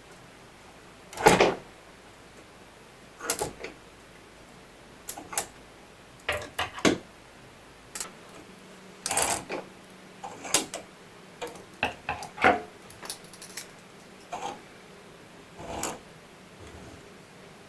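Irregular clicks, knocks and short scrapes of household objects being handled and set down, the loudest and longest about a second in.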